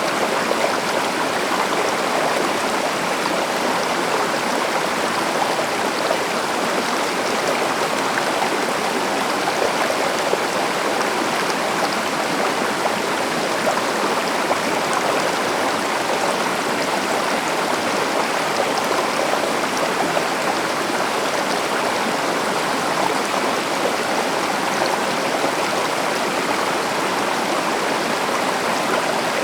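River water rushing and babbling over rocks, a steady even flow without a break.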